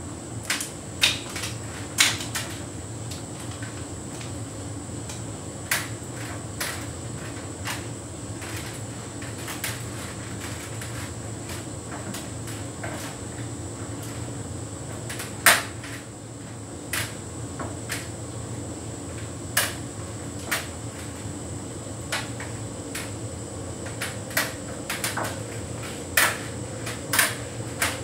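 Hotpoint heat pump tumble dryer running a synthetics cycle: a steady machine hum with irregular clicks and knocks as the load tumbles in the drum.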